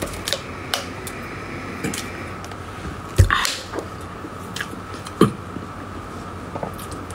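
Close-miked mouth sounds of chewing a soft cream-filled dessert: small wet clicks and smacks, with a louder thump about three seconds in and another about five seconds in, over a faint steady hum.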